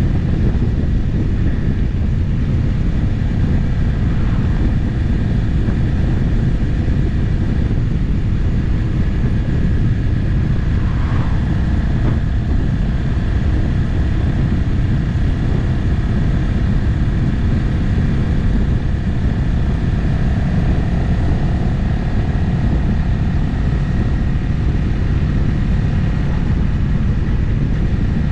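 Motorcycle cruising steadily on an open road, its engine running under a steady rush of road noise, with a brief change in pitch about eleven seconds in.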